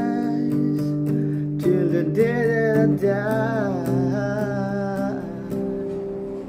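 Acoustic guitar strummed under a voice singing a slow, drawn-out melody line, the sound easing down near the end.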